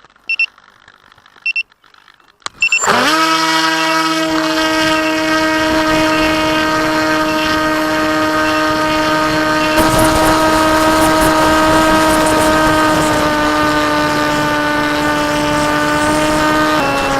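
Two short high electronic beeps, then the KT Wing flying wing's electric motor and propeller spin up suddenly about three seconds in and run at a steady high throttle with a constant whine, dropping slightly in pitch near the end.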